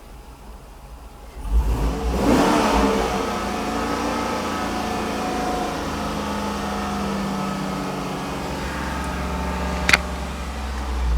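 2006 GMC Yukon Denali's 6.0-litre V8 revved sharply about a second and a half in, then running steadily for several seconds. A sharp click comes near the end, and the engine speed rises again just after.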